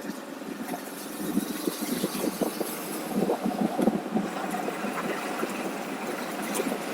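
Motorcycle engine running, with uneven rumbling pulses that grow louder about a second in and ease off after about four seconds.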